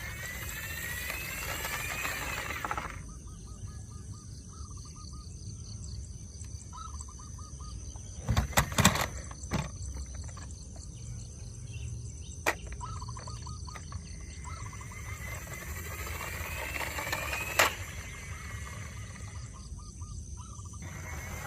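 Outdoor background with small birds chirping, two longer swishing noises, and a few sharp knocks, loudest in a cluster about eight seconds in.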